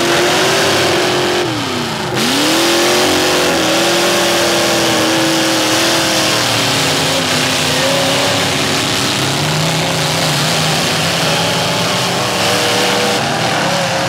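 Several demolition derby cars' engines revving hard and running at high revs, one dropping sharply in pitch about two seconds in and then climbing again.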